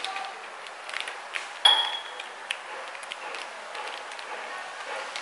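Diced tofu frying gently in oil in a nonstick pan: a light sizzle with scattered crackles and ticks. About a second and a half in, one sharp clink with a short ringing tone.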